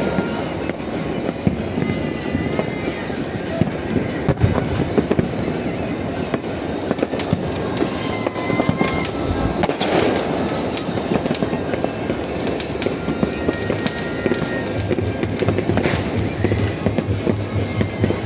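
Many fireworks and firecrackers going off at once: a dense, continuous crackle of bangs and pops, with short whistling tones now and then.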